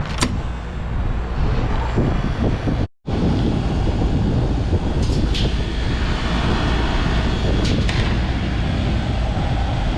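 R-22 rooftop packaged air-conditioning unit running after being switched on, its compressor and condenser fan making a steady, loud mechanical noise. The first stage is kicking on now that the faulty economizer is jumped out. The sound cuts out for an instant about three seconds in.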